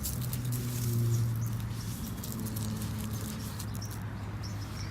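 Toy monster trucks being pushed and scraped through sand, a soft gritty pattering, over a steady low hum.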